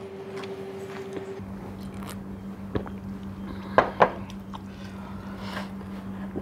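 Close-miked chewing and mouth sounds of a person eating noodles. Two sharp clicks come close together about four seconds in, over a steady low hum that drops in pitch early on.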